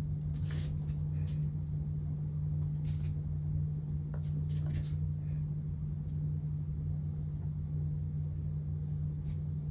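Steady low machine hum, with a few faint brief rustles from small handwork about half a second, three seconds and four and a half seconds in.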